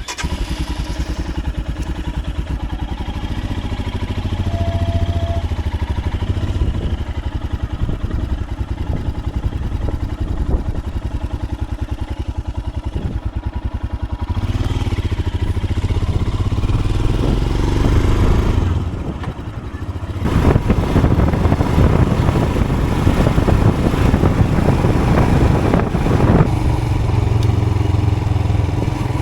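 Royal Enfield Himalayan's single-cylinder engine running, freshly rebuilt and being run in, with an even thudding beat. It grows louder about halfway through, drops away briefly, then runs louder and harder from about two-thirds of the way in.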